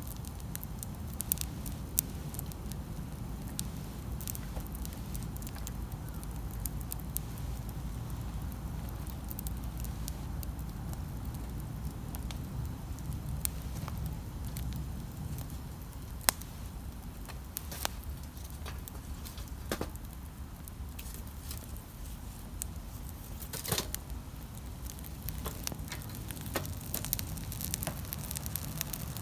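Wood campfire burning and crackling, with scattered sharp pops over a low, steady rumble.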